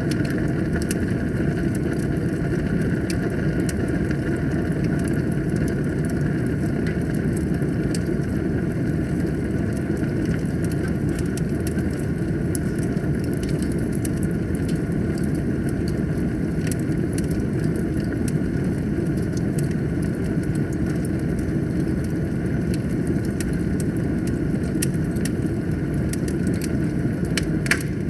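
Wood fire burning in a fireplace: a steady low roar of flames with scattered crackles and pops from the burning logs, a few sharper pops near the end.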